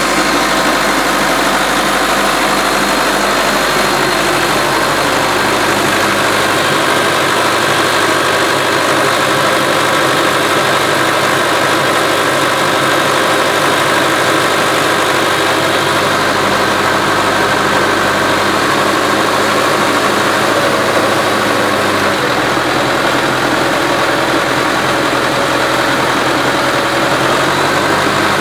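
Tractor engine running steadily while it drives a vertical turbine well pump.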